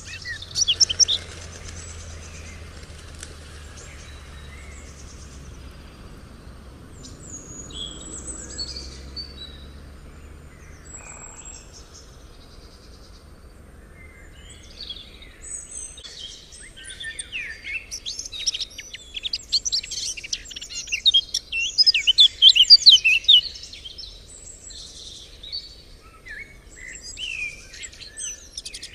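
Several songbirds chirping and singing, sparse at first, then a dense stretch of rapid, high trills in the second half.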